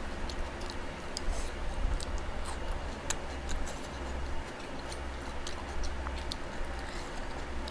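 People eating: irregular small clicks and smacks of chewing, several a second, over a steady low hum.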